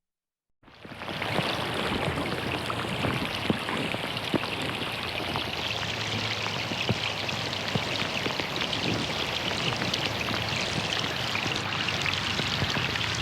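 Rain falling on a pond, a steady hiss of water with many individual drops splashing on the surface. The sound cuts out completely at the start and fades back in within the first second, then stays even.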